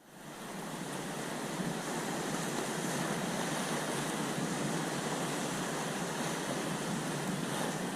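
Steady rushing of the sea with wind on the microphone, fading in over about the first second.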